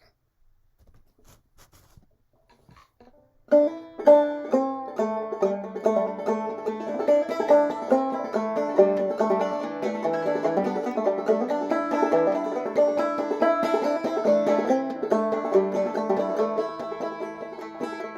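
Five-string banjo played clawhammer style in sawmill tuning, capoed at the second fret: an instrumental introduction of brisk plucked notes that starts about three and a half seconds in, after a few faint knocks.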